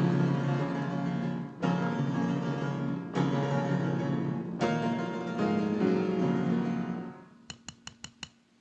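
Cartoon-score piano music: four full chords struck about a second and a half apart, each left ringing. Near the end it fades away, and five short, sharp clicks follow.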